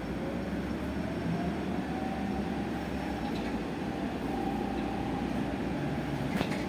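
Electric bus in motion, heard from inside the cabin: a steady road and rolling rumble, with the electric drive's whine rising in pitch over the first few seconds as the bus gathers speed, then holding steady. A brief click near the end.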